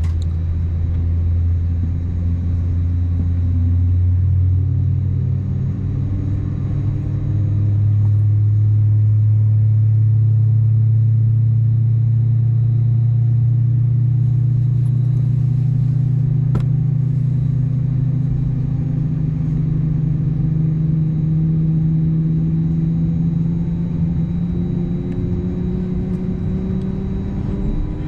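Cabin noise of an Airbus A320-251N with its CFM LEAP-1A engines running: a loud, steady rumble with a low hum that slowly rises in pitch throughout.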